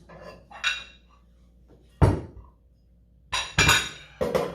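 Steel weight plates clanking as they are loaded onto a loading pin: several sharp metallic clanks with a brief ring, spread irregularly, two close together past the middle.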